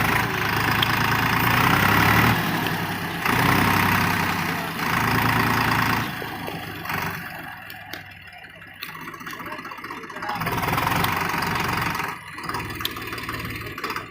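Swaraj 735 FE tractor's diesel engine running, getting louder and quieter in turn: loud through most of the first six seconds, dropping back, then surging again about ten seconds in before easing off.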